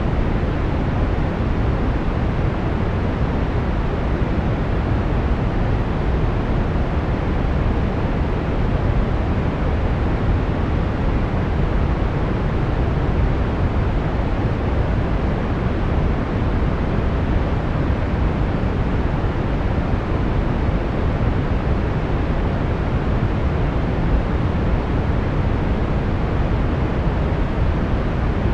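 Brown noise: a steady, even hiss-rumble, strongest in the low end and fading toward the treble, with no change or events.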